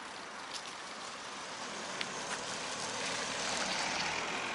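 Steady hiss of road and traffic noise heard while cycling along a street, swelling and easing about three to four seconds in, with a few faint clicks.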